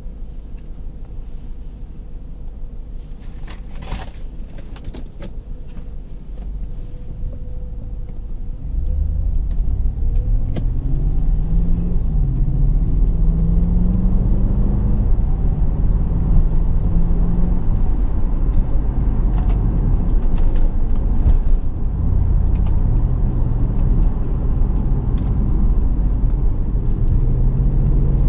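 BMW 650i's V8 engine and road noise while driving: a low rumble that grows louder about nine seconds in, then an engine note that rises and dips as the car accelerates. A few sharp clicks come near the start.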